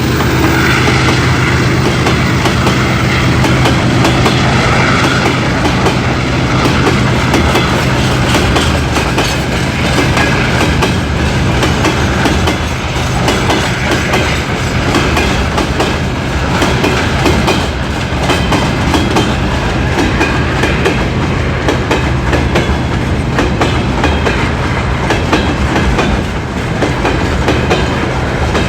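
Freight train wagons rolling past on a climb, their wheels clicking steadily over the rail joints, over a low, steady hum of diesel locomotive engines working under load.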